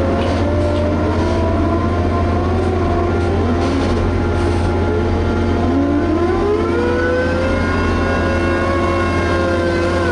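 Liebherr HS 8200 dragline excavator running steadily with a constant low hum. About six seconds in, a whining tone climbs in pitch and then holds.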